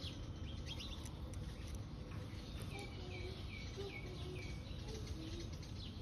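Background birdsong: a small bird repeats a short falling chirp about five times in quick succession around the middle, with a few other faint bird calls, over a steady low background hum.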